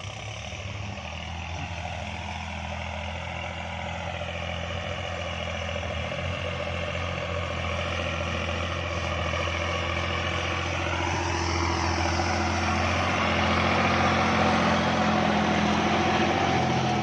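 Kubota farm tractor's diesel engine running steadily under load while disc ploughing, with a whine that drifts up and down. It grows gradually louder.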